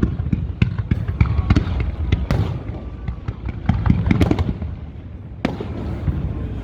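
Fireworks display: many sharp bangs and crackles in quick succession over a steady low rumble, with one sharp bang about five and a half seconds in.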